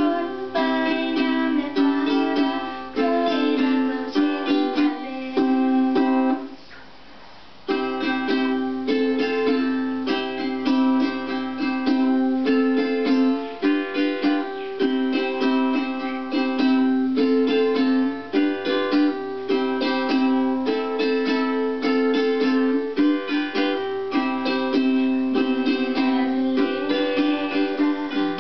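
Instrumental music on a plucked string instrument: a picked melody over lower chord notes. It drops away for about a second some six and a half seconds in, then carries on.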